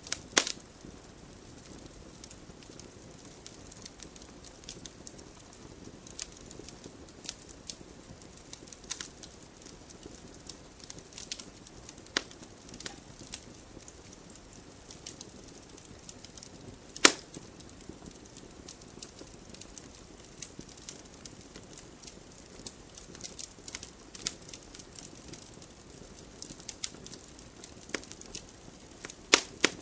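Wood fire in a fireplace crackling, with scattered small pops and snaps over a low steady background of the burning. There is one sharp, loud pop about seventeen seconds in, and a few stronger snaps near the start and the end.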